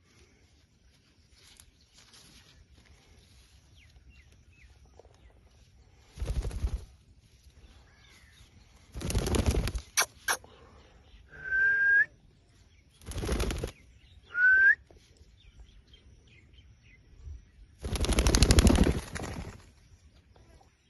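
A parrot flapping its wings in four short bursts, the last and longest just over a second. Between the flaps come two short rising whistles and a couple of sharp clicks.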